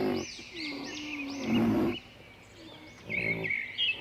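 Wildlife background sound effect: high bird chirps and a steady high whine over low animal calls, the loudest about one and a half seconds in, repeating as a loop.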